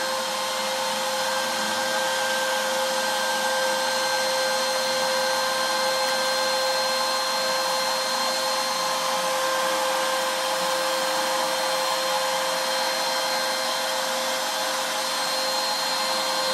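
CNC router spindle running steadily while carving walnut with a 1/16-inch ultra-fine ball-nose bit on the finishing pass after roughing: an even rushing noise with a few held whining tones.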